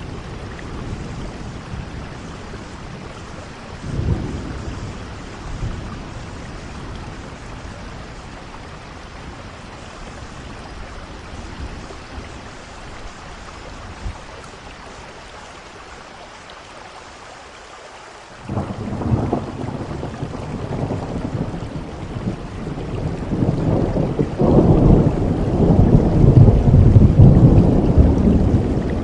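Steady rain with thunder: a brief rumble about four seconds in, then after a quieter lull thunder breaks in sharply and builds into a long, loud rumble that carries on to the end.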